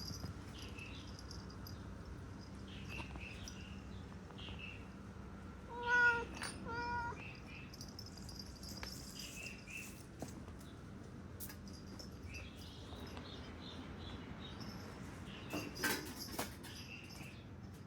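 Domestic cat meowing, loudest about six seconds in, with a second shorter meow just after.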